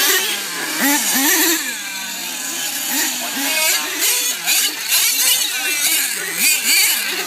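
Several racing monster truck engines revving up and down together, their pitches rising and falling over one another as the trucks race around the track.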